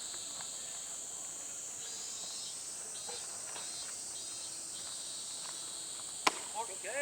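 Steady high-pitched drone of insects, with faint distant voices. About six seconds in comes a single sharp crack, followed by shouts near the end.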